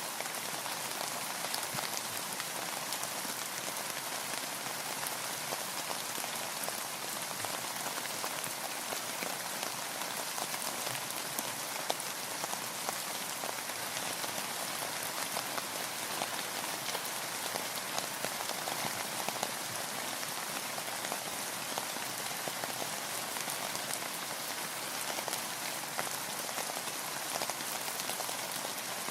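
Steady rain falling on a boat: an even hiss of many drops with fine individual drop ticks through it.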